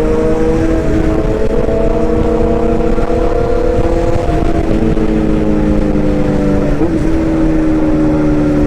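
A motor running steadily with a whine and a low rumble, its pitch drifting slowly and shifting slightly a few times.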